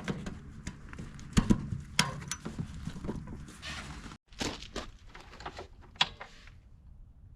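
Irregular knocks and clicks, with a brief break about four seconds in, then a few more knocks.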